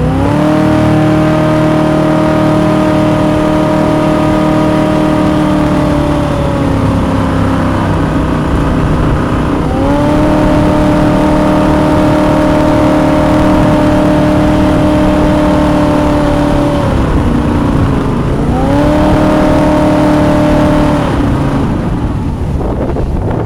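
A jet boat's 350 V8 engine revved three times, each time rising quickly, held steady for several seconds, then dropping back toward idle. The owners put its extra noises down to a worn water pump and alternator bearings, and maybe a slightly loose lifter.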